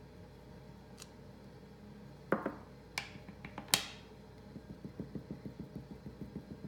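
A few sharp knocks of a rubber stamp on the craft table, then a quick run of soft taps, about five a second, as a sponge finger dauber dabs shimmer paint onto the stamp.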